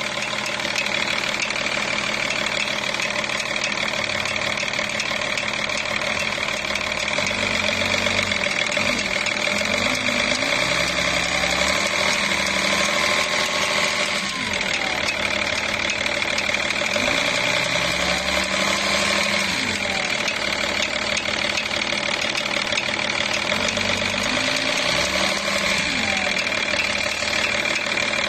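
BMW 3.0d diesel drivetrain with a 5HP24 automatic gearbox running with a metallic sound, which the owner is trying to track down. The running is steady, and three times its pitch slowly rises and falls.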